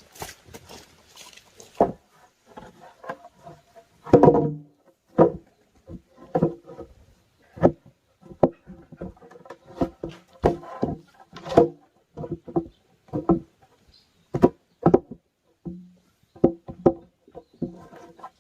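An irregular series of hard knocks, about one a second, each with a short resonant ring; the heaviest comes about four seconds in.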